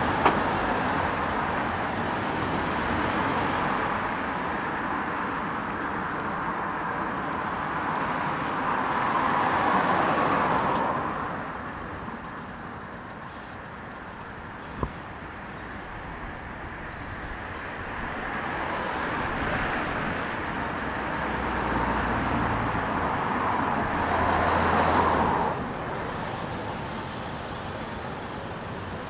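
Road traffic passing on a city street: a steady rush of tyres and engines that swells as vehicles go by, loudest about a third of the way in and again near the end, where a heavier vehicle adds a low rumble. A single sharp click sounds about halfway.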